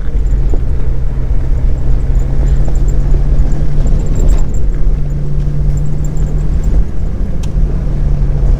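Jeep engine running steadily as it drives down a dirt trail, heard from inside the cab: a steady low hum over a heavy rumble, the hum briefly shifting about seven seconds in.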